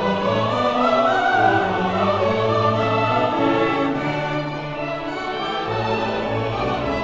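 Classical orchestra playing with voices singing over it: sustained, wavering vocal lines over held string notes.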